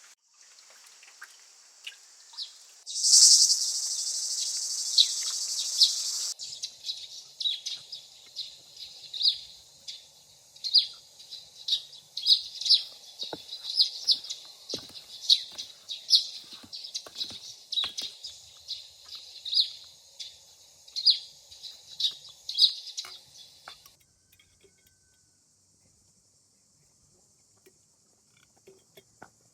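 Birds chirping in many short, repeated high calls over a steady high insect drone, with scattered soft knocks. A loud hiss-like noise runs for about three seconds near the start. The sound drops to near quiet a few seconds before the end.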